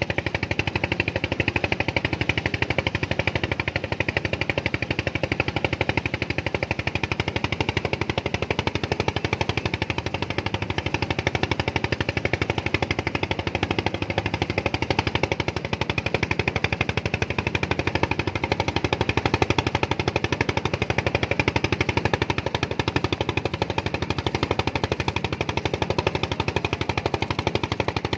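An engine running steadily with a fast, even beat that does not change.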